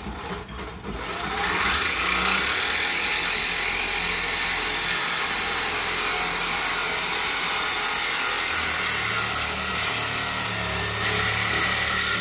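A handheld power tool running steadily and loudly for about eleven seconds, rising in over the first second.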